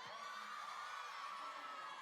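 Crowd of fans screaming and cheering, many high-pitched voices overlapping in long wavering cries, heard faintly from the played-back concert video.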